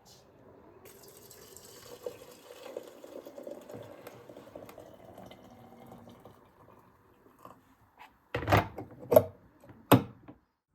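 Water running from a tap into a sink, with a steady splashing hiss. Near the end come three loud, sharp knocks or clatters.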